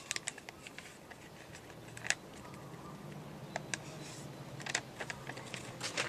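A sheet of paper being folded and creased by hand, with scattered sharp crackles and taps, the loudest about two seconds in and near the end.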